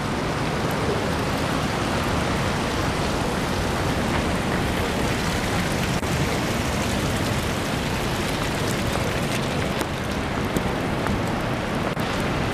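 Steady, even hiss of city street ambience in heavy falling snow, like traffic moving on wet, slushy roads.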